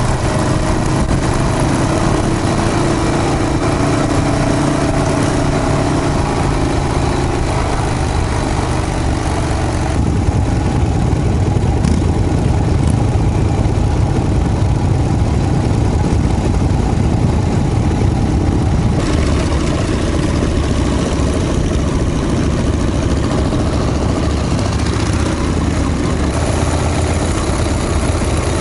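Motorcycle engines running steadily while riding in a group of vintage Harley-Davidson V-twins, heard from on the bike with wind rushing over the microphone. The high hiss drops away abruptly about ten seconds in and comes back a little before halfway through the second half.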